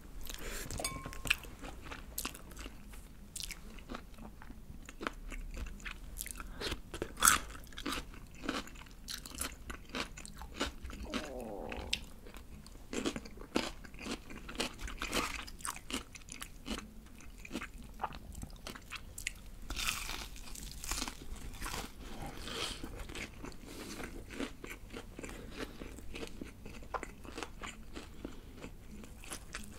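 Close-miked biting and chewing of crispy BBQ Golden Olive fried chicken, with many irregular sharp crunches of the fried batter; the loudest crunch comes about seven seconds in.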